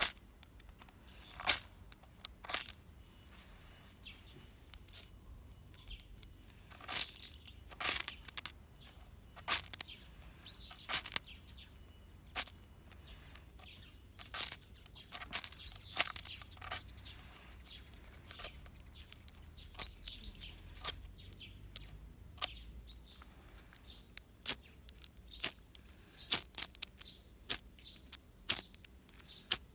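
Irregular sharp cracks and clicks of hard, resinous pine fatwood being broken and worked by hand, with birds chirping faintly behind.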